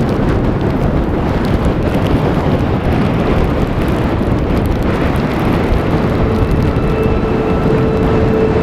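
Storm wind in a heavy snowstorm, a loud steady rush that buffets the microphone. About six seconds in a steady music tone fades in beneath it.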